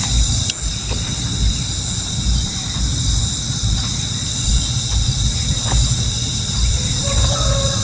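A steady, high-pitched insect chorus of crickets or cicadas, over a continuous low rumble.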